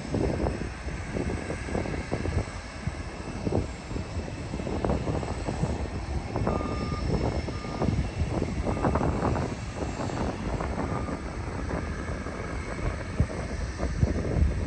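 Jet airliner's engines rumbling as it passes on its landing approach, a low uneven roar throughout.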